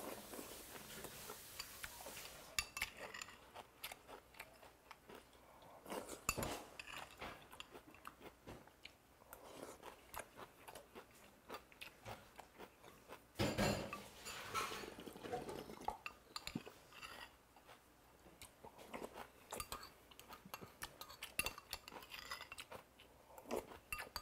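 Close-miked chewing and crunching of a spoonful of cold doenjang broth with rice and raw goby, with a metal spoon clinking against a ceramic bowl. One louder stretch of eating sounds comes about halfway through.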